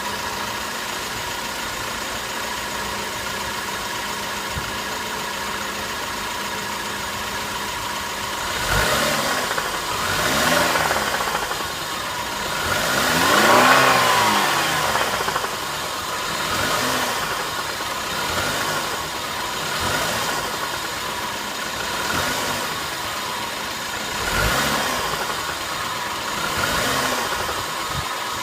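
BMW 318i four-cylinder petrol engine idling, then revved in about eight short throttle blips, the biggest about halfway through, each rising and falling back to idle. The owner hears an unexplained knock from the engine as the throttle is released, though the car otherwise runs normally.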